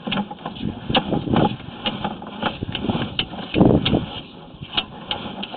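Irregular clicks, knocks and scraping as a sewer inspection camera's push cable is pulled back up through a roof vent, with two heavier, longer knocks about a second in and in the middle.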